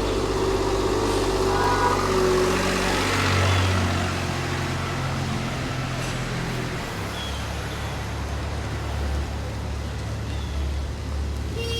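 City road traffic: motor vehicles running, with a steady low engine hum that changes pitch about seven seconds in.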